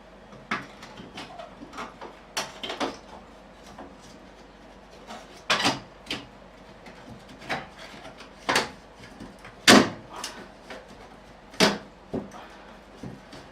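Irregular sharp knocks and clicks, about a dozen, as a ceiling vent cover is handled and fitted back into place; the loudest knock comes about two-thirds of the way through.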